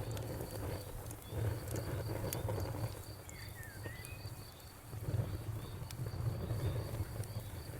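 Wood fire burning in a fireplace, with a low steady rumble and scattered sharp crackles and pops. A cricket chirps steadily throughout, about three chirps a second, and there is a brief high whistling call near the middle.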